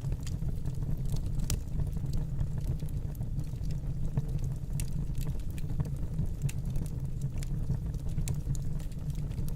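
Wood fire burning in a fireplace: a steady low rumble of the flames with irregular small crackles and pops from the burning wood.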